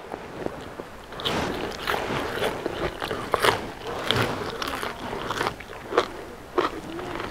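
A person chewing and biting food close to the microphone, with irregular crackly crunches.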